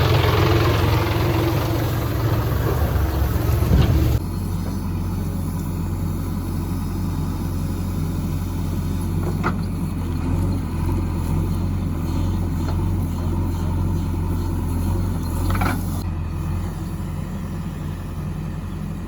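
Heavy diesel engine working hard, then abruptly settling at about four seconds into a steady low idle, with a couple of faint clicks.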